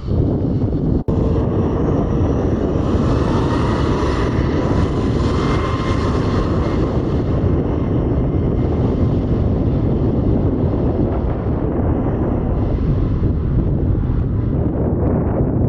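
Boeing 737-8 MAX's CFM LEAP-1B turbofan engines running loud at high power: a steady jet rumble with a faint rising whine, and wind buffeting the microphone.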